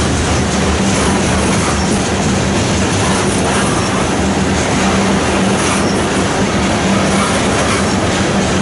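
Coal hopper cars of a slow-moving freight train rolling past close by: a steady loud rumble of steel wheels on rail, with a low hum that comes and goes.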